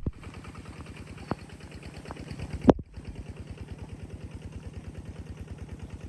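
A small engine idling with a fast, even beat, with a few sharp knocks over it, the loudest near the middle, where the sound briefly cuts out.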